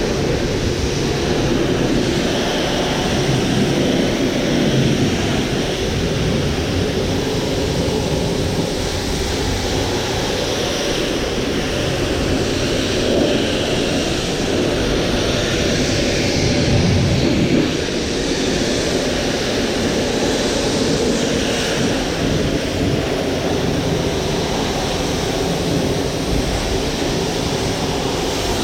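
Pressure washer running steadily, its water jet spraying against the fiberglass shell of a truck camper.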